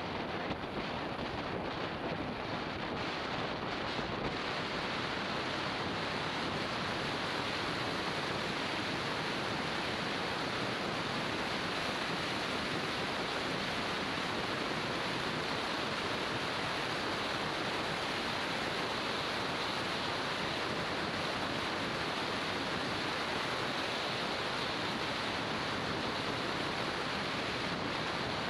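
Steady rushing wind noise buffeting the microphone of a helmet- or bike-mounted action camera on a moving motorbike, even and unbroken, with no clear engine note above it.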